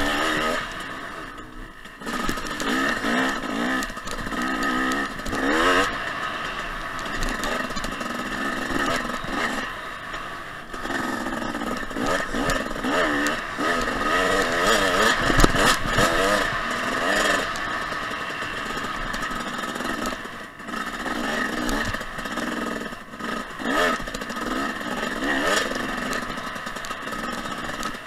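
Dirt bike engine revving up and falling off again and again as it is ridden along a trail, with knocks and rattles from the bike over rough ground.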